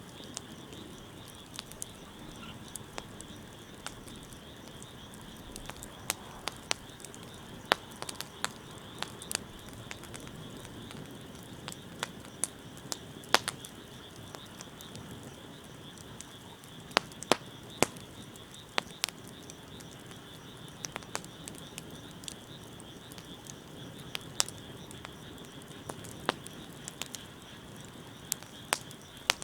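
Wood bonfire crackling, with irregular sharp pops that come singly or in quick little clusters, over a steady high-pitched background drone.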